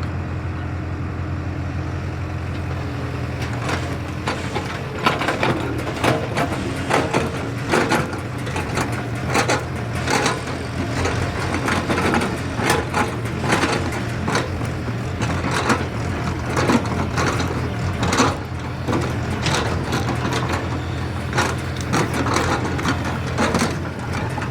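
JCB excavator's diesel engine running steadily. From about four seconds in, it is joined by irregular knocks and crunches.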